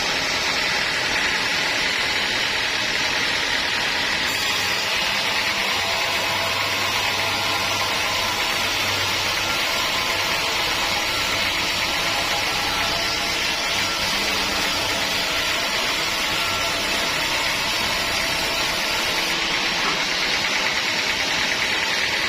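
Sawmill machinery running steadily: a continuous, even whirring hiss with a faint low hum that comes in for a while in the middle.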